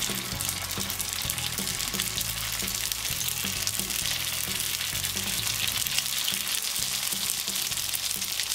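Dumplings frying in hot oil in a nonstick pan: a steady, crackling sizzle that starts abruptly and runs on evenly.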